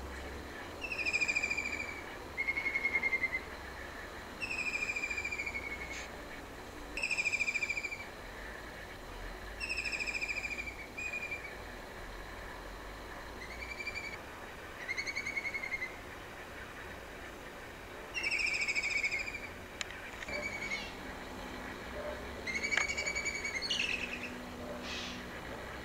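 A bird calling repeatedly, each call a short trilled note under a second long that falls slightly in pitch, coming every one to three seconds.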